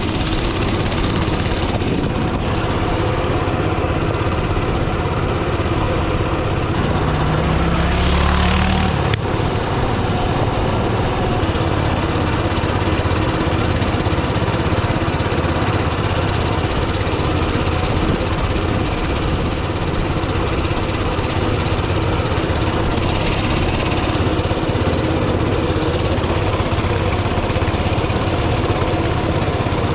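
Coleman mini bike's Predator 224 single-cylinder four-stroke engine running steadily while riding, with a brief rise in engine pitch about eight seconds in.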